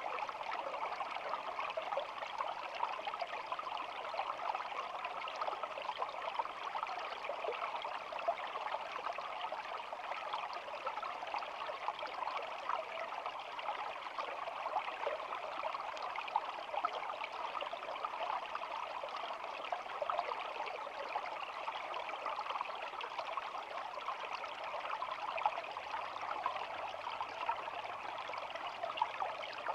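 Shallow stream babbling and trickling over stones: a steady, even rush of flowing water with no breaks.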